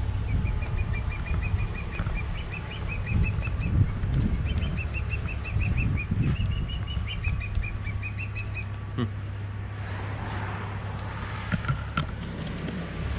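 A songbird sings rapid strings of short, high chirps in several bursts, about seven notes a second, stopping about nine seconds in. Under it is a constant gusty low rumble of wind on the microphone, and a few sharp clicks come near the end.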